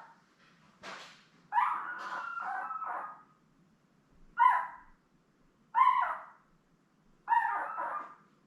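Ten-day-old Labrador retriever puppy crying in a string of high squawking cries, about five of them, the second one longer than the rest. The pup is hungry and crying to be fed.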